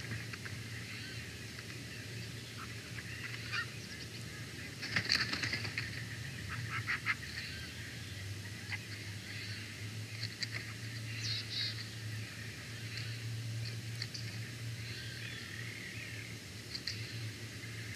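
Birds calling in bursts of high-pitched chirps and chatter, thickest about five to seven seconds in, over a steady low hum.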